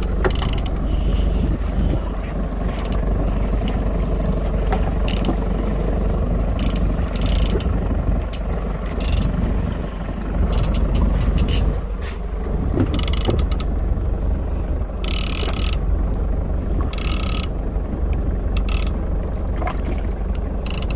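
Steady low rumble of a small boat at sea, its engine and the water, with scattered short clicks and hissing bursts.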